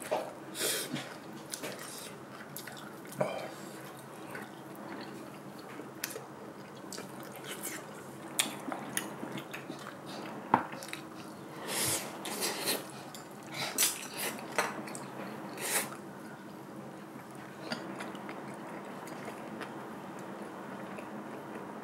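Close-miked eating sounds: wet chewing, lip smacks and small mouth clicks, scattered irregularly, with a few louder clusters of smacks in the second half as spicy stir-fried webfoot octopus and pork are eaten with chopsticks.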